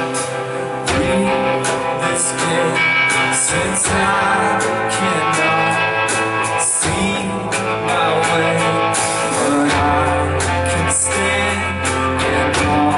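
Live band playing an instrumental passage between sung verses: guitar over sustained chords and a bass line, with regular drum and cymbal hits.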